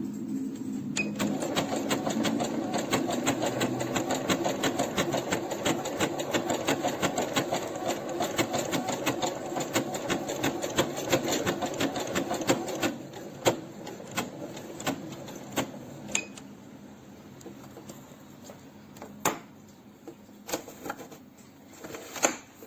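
Electronic sewing machine stitching a programmed decorative pattern, a rapid even run of needle strokes that stops about thirteen seconds in. Scattered single clicks and knocks follow as the machine and fabric are handled. The pattern stitched is one that the owner finds does not come out as it should.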